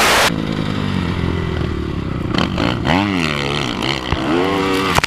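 Motocross bike engine revving, its pitch rising and falling several times in the second half as the throttle is worked, after a short rush of noise at the very start.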